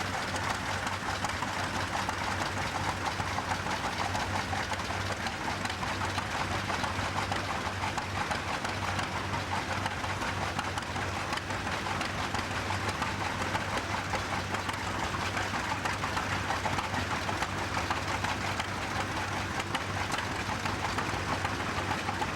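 Farm tractor engine running steadily, a continuous rapid mechanical beat with no pauses or changes in pace.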